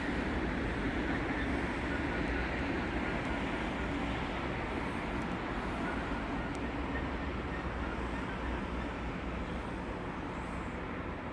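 A train rolling along the tracks through the station, a steady rumble that slowly fades.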